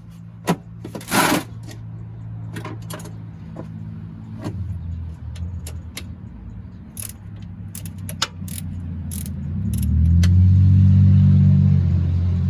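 Hand tools clinking and rattling metal on metal, with many sharp separate clinks and a louder scraping rattle about a second in. A steady low hum runs underneath and gets louder about ten seconds in.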